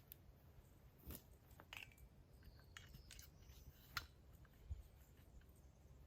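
Near silence broken by a few faint, short clicks and snaps, the sharpest about four seconds in.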